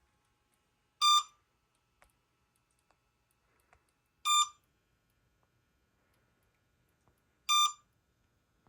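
Three short electronic beeps, evenly spaced about three seconds apart, from the RC equipment: an idle alert, sounding because it has been left switched on for a while.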